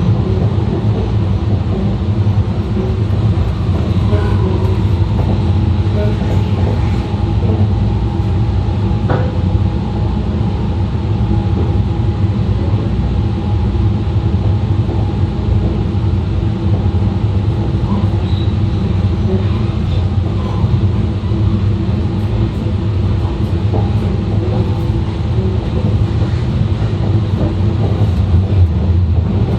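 E2 series Shinkansen running steadily, heard from inside the train: a continuous low rumble with faint tones drifting above it.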